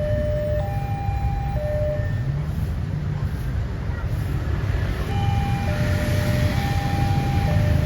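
Railway level-crossing warning alarm sounding its two alternating tones, one lower and one higher, over the heavy rumble of a passing train; the train noise grows louder about five seconds in.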